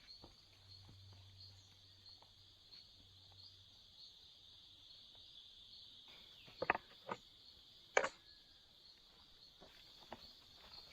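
Faint, steady high-pitched chirring of insects, cricket-like, with a few sharp clicks and knocks, the loudest of them in a short cluster about two-thirds of the way in.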